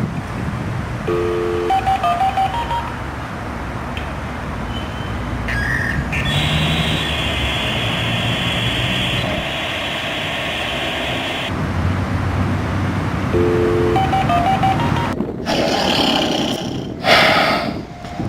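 Electronic sound collage played back: a dense layered din with short runs of stepped beeps, once about a second in and again near the end, and a steady high tone for several seconds in the middle.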